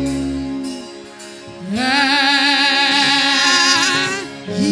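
Yoruba gospel worship singing: a held note fades in the first second, then after a brief lull a singer holds one long note with heavy vibrato for over two seconds.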